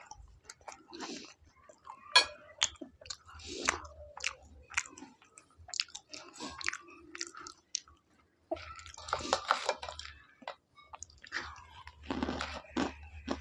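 A man chewing and biting food close to a clip-on microphone: irregular crunching and chewing sounds.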